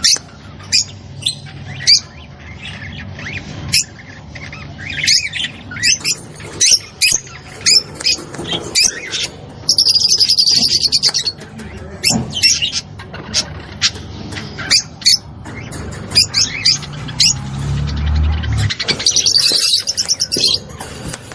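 Rosy-faced lovebirds chattering: many quick, sharp chirps and squeaks, with a rapid buzzing trill about ten seconds in and another near the end.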